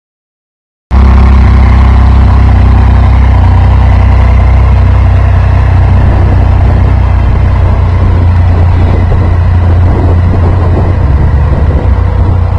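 2008 Triumph Street Triple's 675 cc inline-three engine running, loud and steady, cutting in abruptly about a second in after dead silence.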